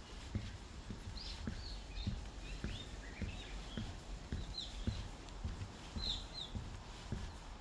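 Footsteps walking at a steady pace, about two steps a second, with birds chirping in short high calls through the middle.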